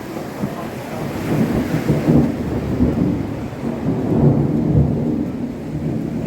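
Thunder rumbling during heavy rain, the low rumble swelling and easing over several seconds over the hiss of the rain.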